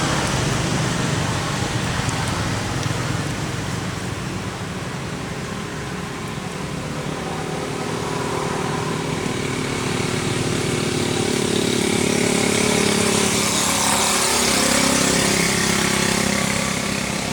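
A motor vehicle engine running amid outdoor background noise, getting louder toward the end.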